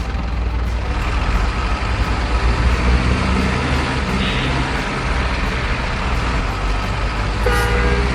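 Truck engine sound from a radio-controlled model truck, running steadily, with a short air-brake-like hiss about four seconds in and a brief pitched tone near the end.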